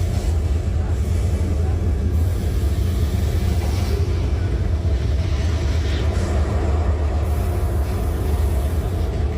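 Steady low rumble of a moving vehicle, continuous and even throughout.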